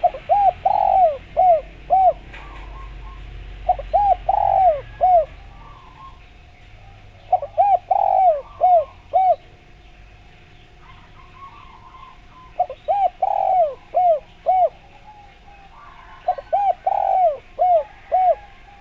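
Spotted dove (derkuku) cooing: five phrases of four or five short, arched coos each, spaced a few seconds apart. Faint chirps of small birds in the background.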